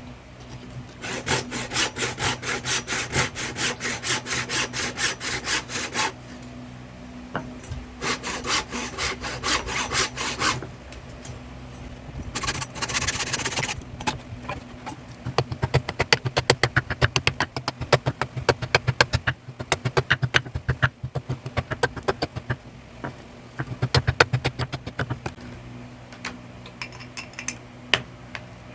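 Rhythmic scraping strokes of a hand tool worked back and forth, about three strokes a second in two runs. After a short pause they give way to quicker, sharper clicks and taps, over a steady low hum.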